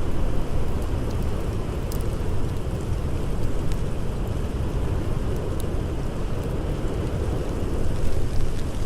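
Blizzard wind blowing as a steady deep rush, with a few scattered sharp pops of a crackling campfire.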